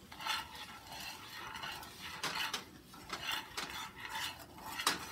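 Wire whisk stirring and scraping brown sugar into browned butter in a nonstick skillet, in repeated uneven strokes. A sharp click of the whisk against the pan comes near the end.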